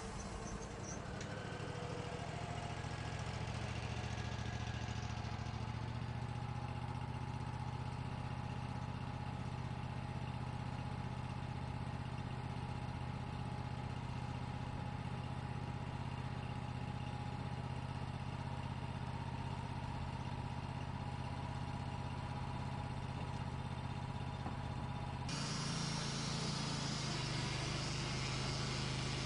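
Sawmill engine running steadily at one speed. Near the end the sound changes abruptly, with more hiss over the engine.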